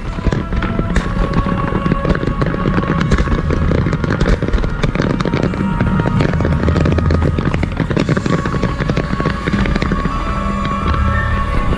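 Fireworks crackling and popping in rapid, dense succession, with music playing underneath.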